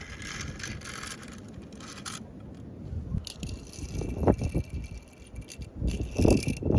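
Small die-cast Tomica toy cars rolling and rattling on hard play equipment, with a few louder knocks near the end.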